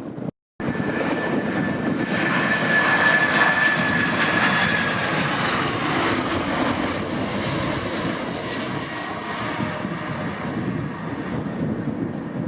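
Jet airliner's engines passing close by: a loud rushing noise with a high whine that slides slightly down in pitch, loudest about three seconds in, then easing to a steady rush. A brief gap in the sound about half a second in.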